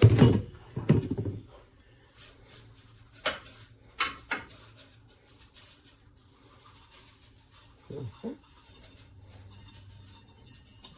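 Kitchen utensils and a dish knocking and clinking a few times, a cluster about three to four seconds in and two lighter knocks near eight seconds, over a faint low hum, as rice is added to a casserole dish.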